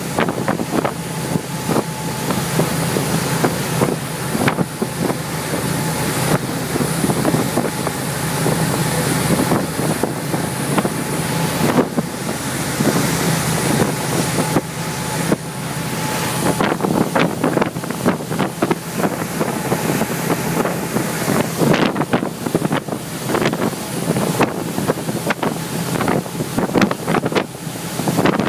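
Viking yacht running at about 30 knots: a steady engine drone under rushing water and wind buffeting the microphone. From about halfway on, the noise turns choppier, with many short gusts and splashes.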